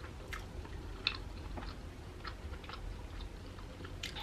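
A person chewing food in a mukbang: faint, irregular wet mouth clicks, about two or three a second.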